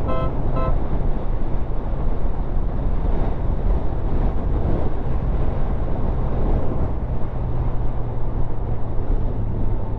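Motorcycle riding at road speed: steady engine drone under heavy wind noise buffeting the helmet-mounted microphone. Two brief pitched tones just after the start.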